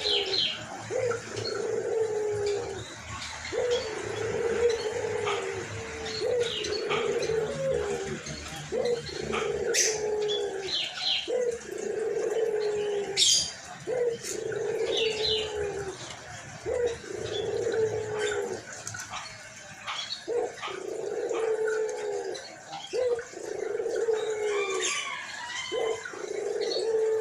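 White puter dove (ringed turtle dove) cooing over and over in a hoarse voice, one low coo about every second and a half, each sagging in pitch at its end. Short high chirps of small birds come in between.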